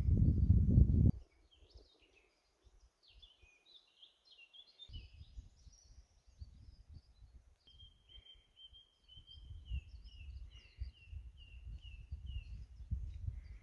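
Wild songbirds singing: a varied, rapid song at first, then one bird repeating the same short note about twice a second for several seconds. Low wind rumble on the microphone is loud at the very start, cuts off suddenly, and returns more faintly about five seconds in.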